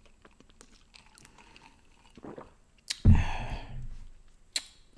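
Close-miked chewing with small wet mouth clicks, and one louder bite about three seconds in that fades over most of a second.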